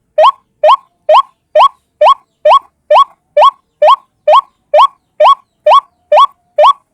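A single white-breasted waterhen (ruak-ruak) giving its call as a lure recording: one short rising note repeated steadily, a little over two notes a second.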